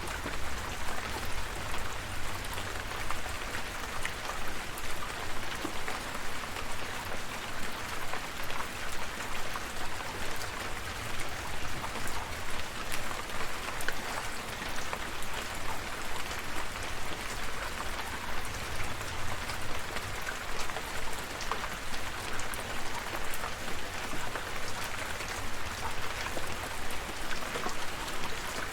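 Steady rain falling: a dense, even hiss with individual drops ticking sharply through it and a low rumble underneath.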